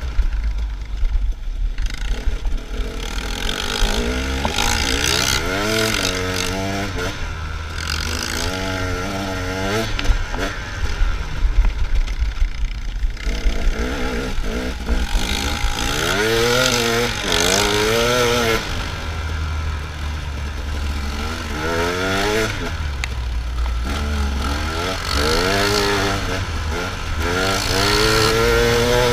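Dirt bike engine revving again and again, its pitch sweeping up and dropping back several times, over a steady low rumble.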